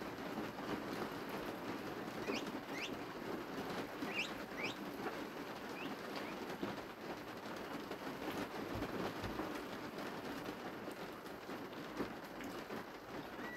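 A small bird gives a handful of quick chirps about two to six seconds in, over a steady outdoor rushing background.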